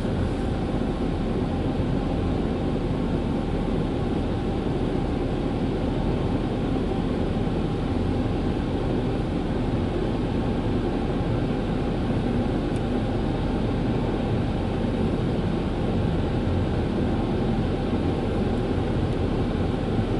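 Ryko Softgloss Maxx car wash dryer blowers running at a steady, loud rush.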